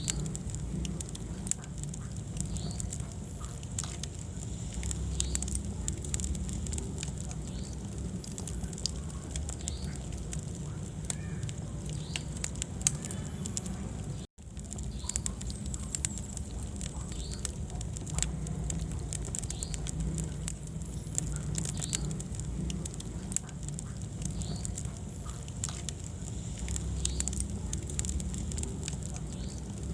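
Wood fire in a fireplace crackling and popping steadily over a low rumble of flames. The sound cuts out for an instant about halfway through.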